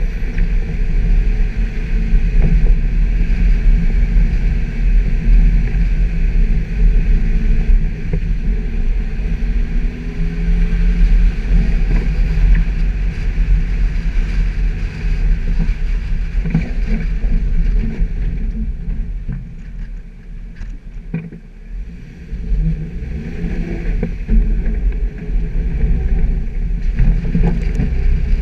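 Suzuki Jimny's engine running under load while driving off-road, a steady low rumble with scattered knocks from the body and suspension over rough ground. About two-thirds of the way through, the engine eases off and goes quieter for a few seconds, then picks up again.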